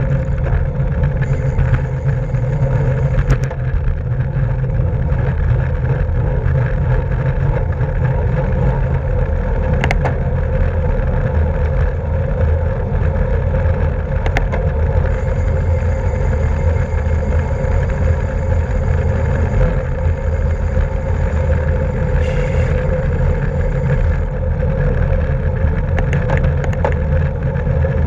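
Steady wind rush over the microphone of a camera riding on a racing bicycle at speed, with tyre and drivetrain hum underneath and a few brief clicks.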